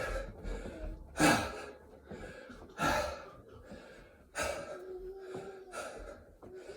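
A man breathing hard and gasping between burpee reps, a loud breath about every second and a half: he is out of breath from the exertion.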